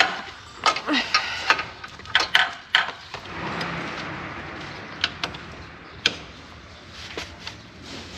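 Irregular metallic clicks and knocks of hand tools working on a motorbike's oil drain bolt, with a soft hiss for a couple of seconds in the middle.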